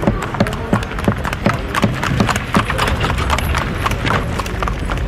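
A steady run of sharp knocks, about three a second, over a low rumble.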